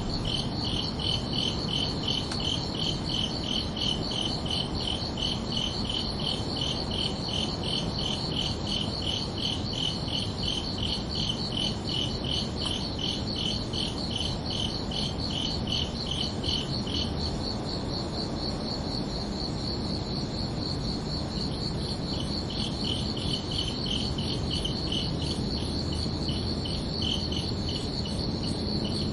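Crickets chirping: one keeps up a steady high trill, while another gives lower chirps about three a second and falls silent for a few seconds midway before resuming. Under them is a low, steady background noise.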